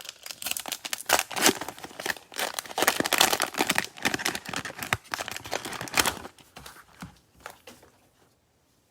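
Plastic cellophane wrapper of a trading card pack being torn open and crinkled by hand, a dense crackling for about six seconds that thins to a few crackles and then stops near the end.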